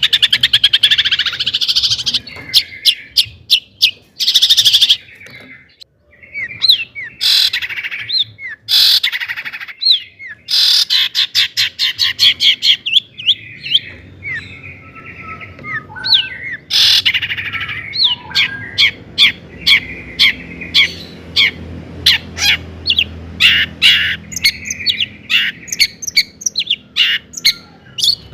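Long-tailed shrike (cendet) singing a busy, varied song: fast runs of repeated chirps and trills, short whistled slurs and harsh scratchy notes, with a few brief pauses.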